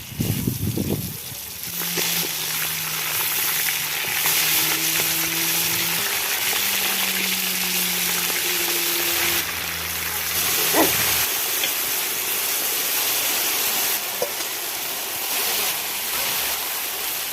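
Rack of lamb sizzling steadily in hot fat in a kazan, a continuous frying hiss.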